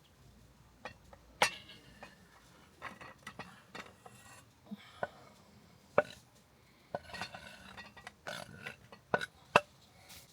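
Irregular light clicks and clinks of small hard objects being handled, about a dozen, the sharpest two close together near the end.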